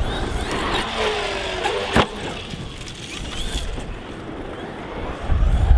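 Traxxas XRT 8S truggy's brushless electric motor whining, its pitch falling as the truck slows, with a sharp knock about two seconds in. Wind rumbles on the microphone near the start and again near the end.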